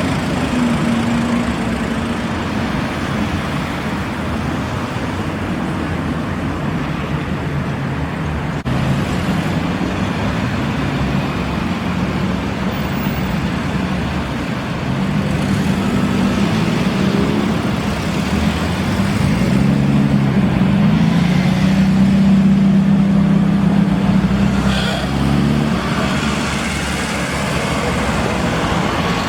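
Classic car engines running as the cars drive by, over road and traffic noise. The engine pitch rises and falls, with short rev-ups a little past the middle and again near the end.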